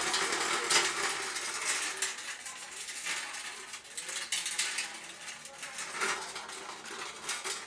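Homemade metal spinning top made from a motorcycle gear clattering, with irregular sharp metallic clinks and scraping, loudest in the first second or so.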